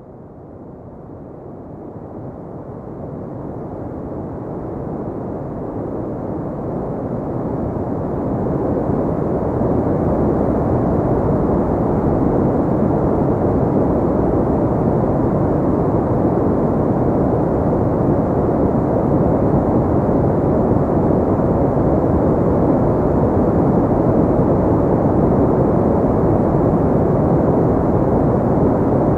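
Steady, low-pitched rushing noise, a filtered white-noise bed with little treble, fading in over the first ten seconds and then holding even.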